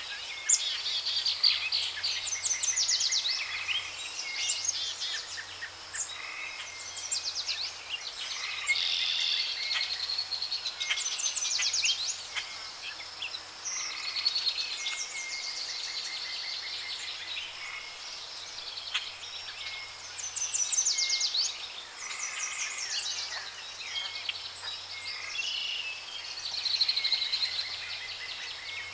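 Jungle ambience: many birds calling, with repeated rapid trills and chirps, over a steady high insect drone.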